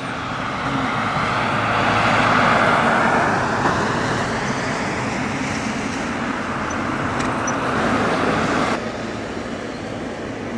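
Boeing 777 Freighter's twin GE90 turbofan engines running at taxi power, a steady rushing jet noise that swells a couple of seconds in and again near the end, then drops off abruptly about nine seconds in.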